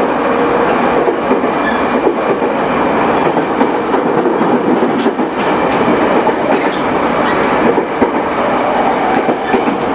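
JR East E217 series electric train with a Mitsubishi IGBT-VVVF inverter, running at a steady speed. It is a dense rolling rumble with a few sharp clicks from the wheels on the track.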